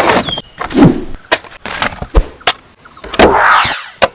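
Plastic toy cars clattering on a hard surface: a string of sharp clicks and knocks, with two brief rolling swells of wheel noise.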